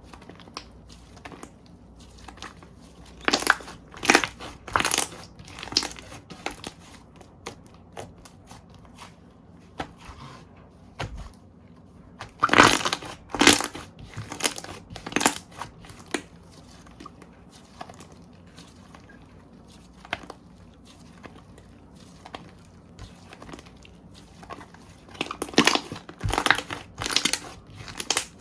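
Hands squishing and pressing slime, making wet crackling pops in three louder clusters.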